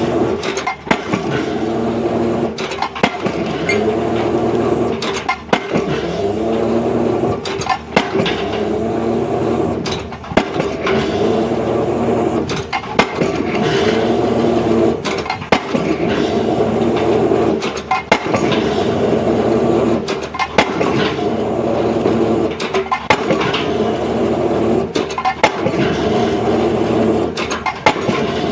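Heavy construction machinery running steadily, with sharp heavy impacts on concrete or piles about every two and a half seconds.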